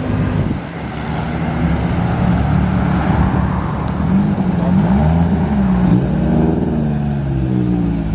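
Classic car engine running as a first-generation Toyota Celica coupe pulls away at low speed, its pitch rising and falling a few times with light revving.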